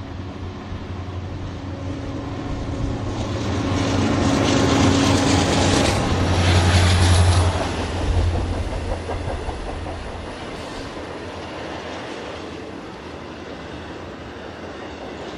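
Norfolk Southern freight train passing: the diesel locomotives' deep engine drone builds and is loudest about five to eight seconds in, then the cars roll by with a steady clickety-clack of wheels on rail joints.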